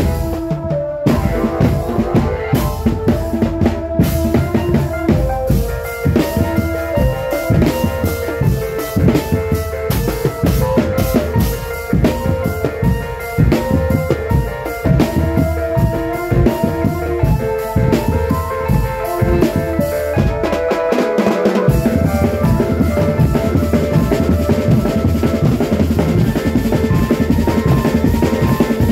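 Marching drum band playing: bass drums and snare drums under a melody on pitched instruments. About 21 seconds in the low drums stop briefly, then a faster, denser beat takes over.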